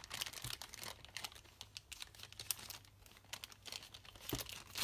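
A bag crinkling and rustling as things are packed into it, a quick run of small crackles, with a soft knock near the end.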